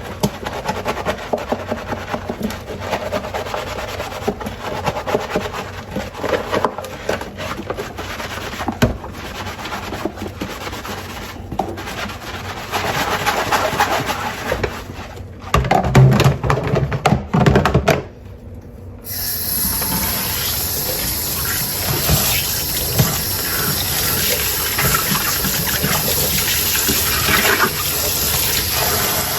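Dishes being washed by hand in a sink: crockery clinking and knocking with water. After a short lull about two-thirds of the way through, the tap runs in a steady stream.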